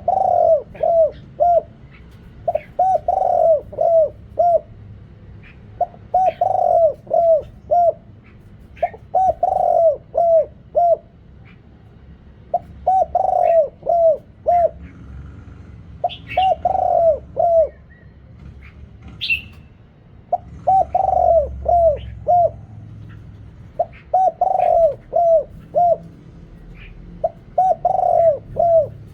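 Big-voiced spotted dove cooing its call: about nine phrases, each a longer opening coo followed by three or four short, quick coos, repeating every three seconds or so. Faint high chirps sound between the phrases.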